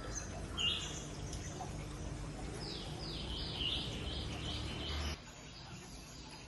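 Birds chirping outdoors: a short high call about half a second in, then a run of quick, falling chirps from about two and a half to five seconds, over a steady low background noise that cuts off suddenly near five seconds.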